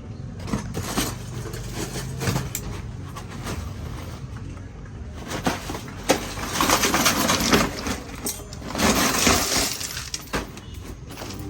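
Metal clinks, taps and scraping from work on a cooking stove being repaired, with scattered sharp knocks and longer stretches of scraping in the second half.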